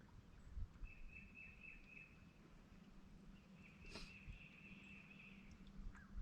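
Faint outdoor quiet with a high, thin trilling call, heard twice and lasting one to two seconds each time, plus a single sharp click about four seconds in.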